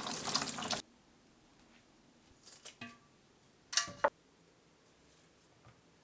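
Water running from a tap, cut off abruptly about a second in, followed by a few light knocks and clinks of kitchen things, the loudest pair a little past halfway.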